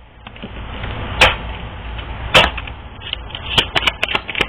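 Sharp clicks and taps of oracle cards being handled and shuffled on a table: two single taps, then a quick run of clicks near the end, over a low steady hum.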